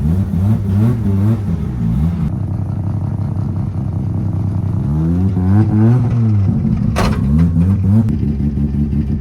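Drift car engine revving hard, its pitch climbing and dropping again and again through throttle blips and gear changes, with a sharp crack about seven seconds in.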